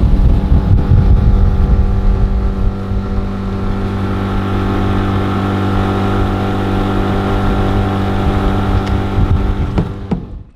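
Mercury outboard motor on a jon boat running steadily under way, with wind buffeting the microphone. It cuts off abruptly near the end.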